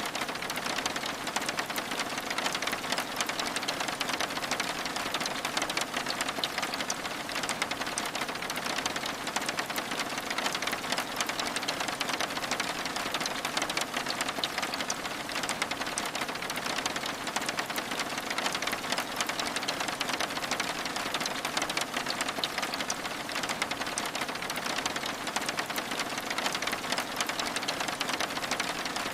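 Steady rain pattering on window glass: an even hiss of dense, rapid drop ticks that neither builds nor fades.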